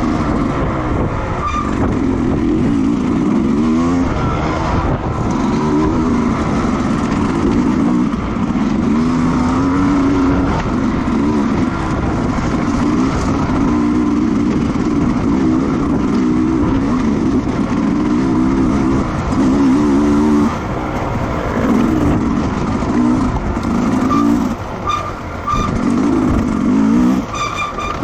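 Racing motorcycle engines running hard, the pitch climbing and dropping again and again as the bikes accelerate through the gears and brake for corners.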